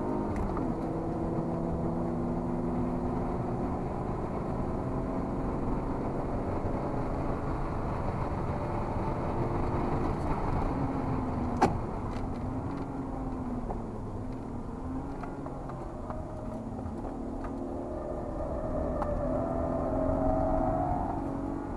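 BMW E36 320i's 2.0-litre straight-six engine heard from inside the cabin at track pace, its revs rising and falling. There is one sharp click about twelve seconds in.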